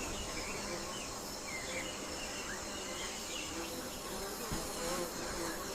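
Tropical forest ambience: a steady hum of insects with faint, scattered short chirps.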